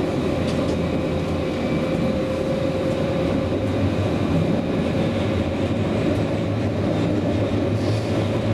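Luas light-rail tram running along its track, heard from inside the car: a steady rolling rumble with a constant whine held on one pitch.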